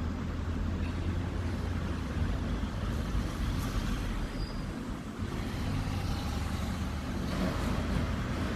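Road traffic, with a heavy vehicle's engine giving a low, steady rumble close by.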